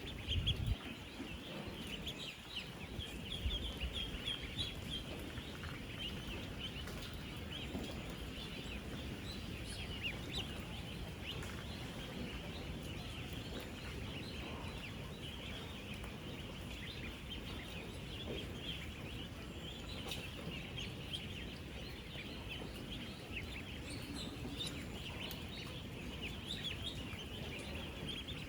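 A large flock of ten-day-old ducklings peeping constantly, thousands of short high peeps overlapping into a continuous chorus. A few low thumps come in the first few seconds.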